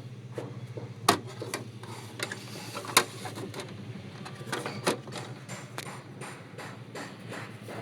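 Irregular mechanical clicks and knocks from an Epson L-series inkjet printer under repair, over a steady low hum. Two sharper knocks stand out, about a second in and at three seconds.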